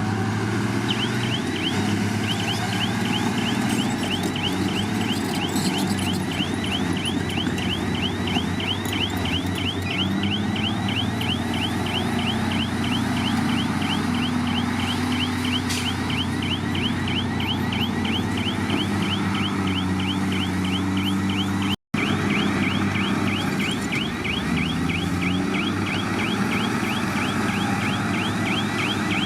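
Bulldozer's diesel engine running steadily under load, with a rapid, even run of high squealing chirps, about five a second, from about a second in. The sound drops out for a split second about 22 seconds in.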